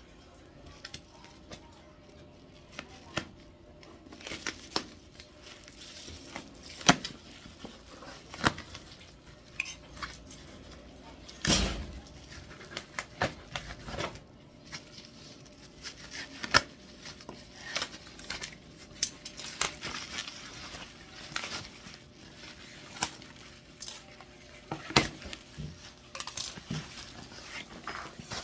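Unpacking a new welding machine: irregular clicks, knocks and clinks of the machine and its parts being handled, with some rustling and crinkling of packaging.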